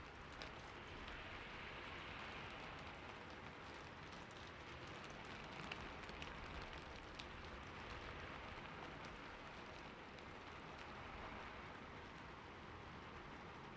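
Steady rain falling on a roof: an even hiss with scattered drop ticks.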